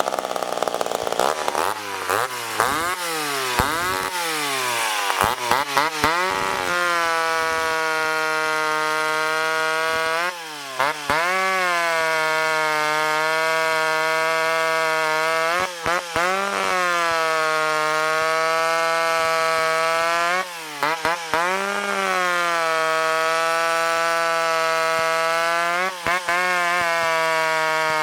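Ported McCulloch Pro Mac 10-10 two-stroke chainsaw run hard. For the first few seconds the revs swing up and down, then it holds a steady high-revving buzz, with brief dips and surges in pitch about every five seconds.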